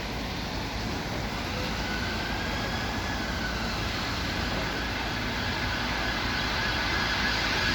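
Steady road traffic rumble, slowly growing louder.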